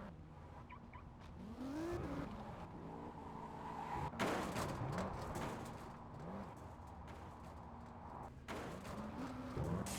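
Car engine being revved in a series of quick blips, each rising and falling in pitch, with a loud sudden burst about four seconds in.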